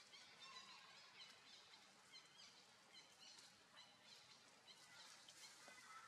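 Faint bird chirping: many short, high calls scattered throughout over a quiet background.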